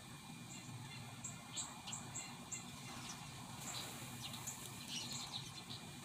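Small birds chirping: short, high chirps two or three a second, then a busier run of chirps from about halfway in. A faint steady background hum runs underneath.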